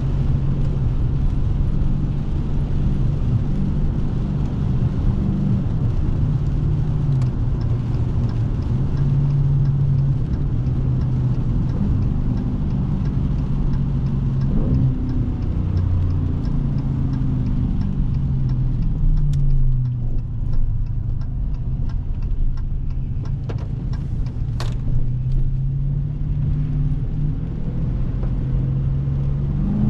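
Dodge Scat Pack's 392 HEMI 6.4-litre V8 under way, the engine note easing down as the car slows a little past halfway, then climbing again as it accelerates near the end. A light, regular ticking runs through the middle stretch.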